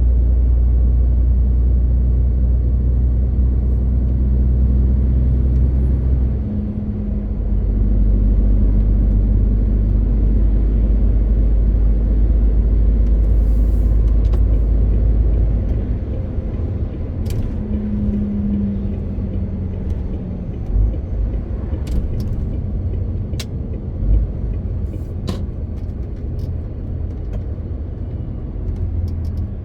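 MAN TGX 18.520 truck's straight-six diesel heard from inside the cab, running under load with a deep, steady drone. The drone dips briefly about six seconds in, then eases off a little past halfway, leaving quieter road and cab noise with a few sharp clicks.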